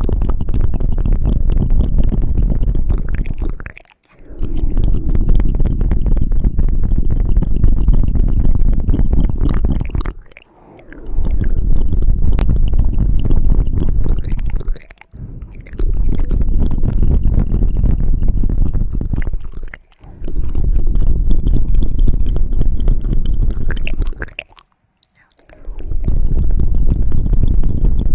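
ASMR ear cleaning on the ear of a binaural microphone: dense rubbing and scratching right on the mic, with a deep rumble. It comes in stretches of about five seconds, with brief pauses between them.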